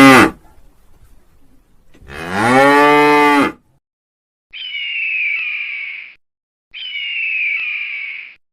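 Cow mooing: the end of one moo at the start, then a full moo about two seconds in, each falling in pitch. Near the end come two separate high calls from another source, each about a second and a half long, with a falling pitch.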